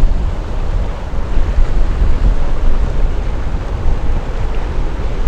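Wind buffeting the microphone: a loud, gusting rumble with an irregular rise and fall in level.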